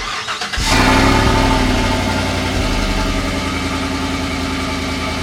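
Chevrolet Silverado Trail Boss Z71 pickup cold start, still with its muffler: the starter cranks for about half a second, the engine catches with a loud flare, then settles into a steady fast idle.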